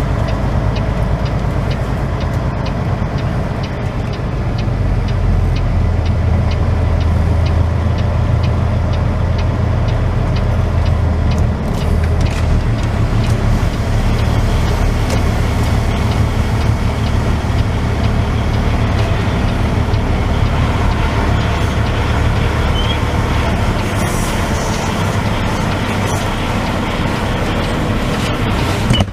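Semi-truck diesel engine running steadily, with its low drone growing louder for several seconds a few seconds in.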